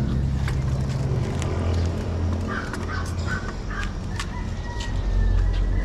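Fowl-like bird calls, short calls in the middle and a longer one later, over a low steady hum and scattered clicks.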